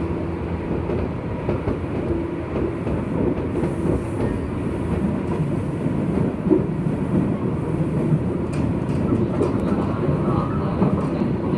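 Running noise inside a JR West 201 series electric train's motor car at speed: a steady rumble of wheels rolling on the rails, with a few short clicks in the second half.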